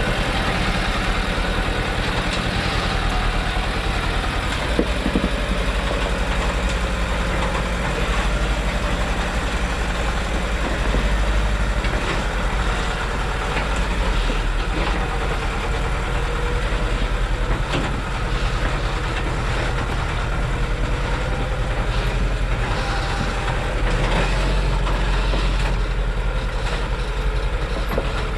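Heavily loaded truck's engine running steadily, its pitch slowly rising and falling a little.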